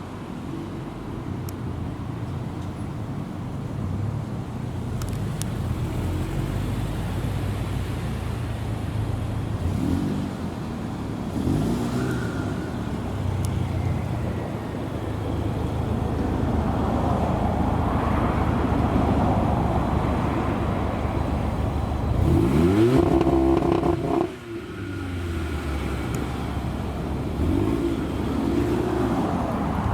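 Supercar engines running at low revs, with short blips of the throttle. About three quarters of the way through, one engine revs up hard and then drops off suddenly.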